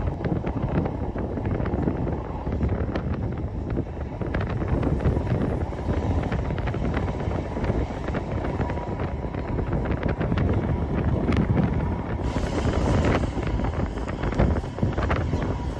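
Passenger train running along the line: a steady rumble of wheels on rail with many small clicks and rattles, and a short rush of hiss about twelve seconds in.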